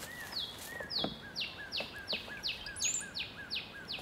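A songbird singing a rapid run of repeated whistled notes, each a quick downward slide paired with a short lower note, about three a second.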